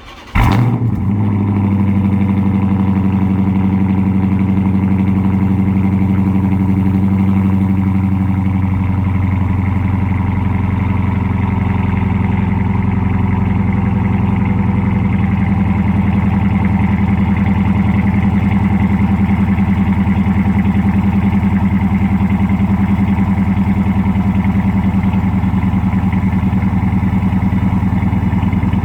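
2013 Chrysler 300C's 5.7-litre Hemi V8 starting up, heard through an exhaust with Dynomax Race Bullet mufflers in place of the mid mufflers and the resonators deleted. It starts about half a second in, then idles steadily, the idle settling slightly about eight seconds in.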